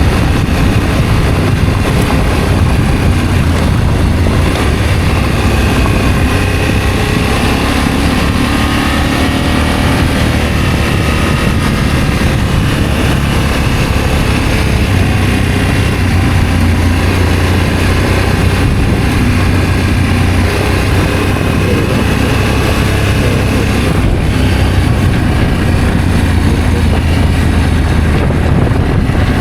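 Adventure motorcycle under way, its engine running steadily with slight changes in pitch, under a constant rush of wind noise.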